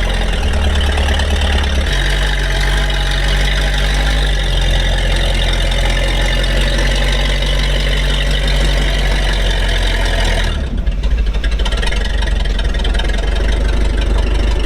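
The Rolls-Royce B80-series straight-eight petrol engine of an Alvis armoured vehicle running. Its speed steps up and down a few times in the first seconds, and about ten seconds in the tone changes suddenly and turns rougher.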